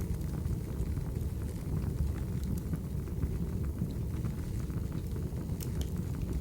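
Wood fire burning: a steady low rumble of flames with scattered sharp crackles, and a couple of louder pops near the end.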